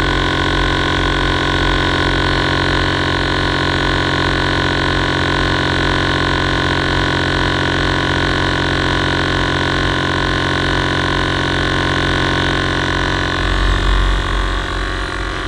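Two Air Lift 444C 12-volt air-ride compressors running together at full load, filling the air tank. A steady, dense mechanical hum and rattle with a slow wavering where the two motors' pitches beat against each other.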